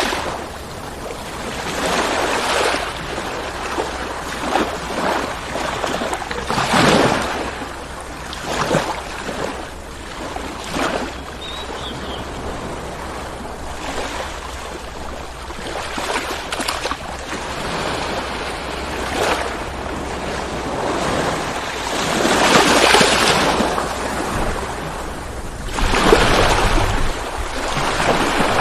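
Ocean waves breaking and washing up the shore, the surf swelling and falling back in irregular surges every few seconds, the biggest about two-thirds of the way through and again near the end. A steady low rumble runs underneath.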